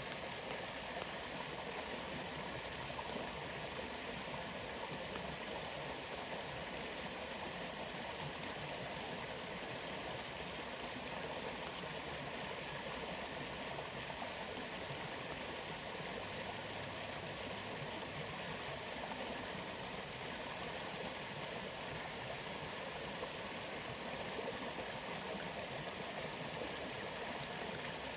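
Waterfall water flowing, a steady, even rush that does not change.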